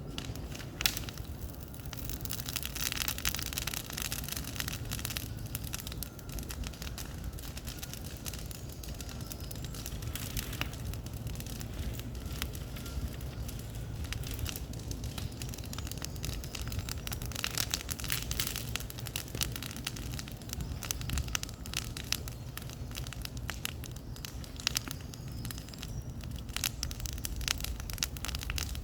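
Bonfire crackling and popping, with many irregular sharp snaps over a steady low rumble.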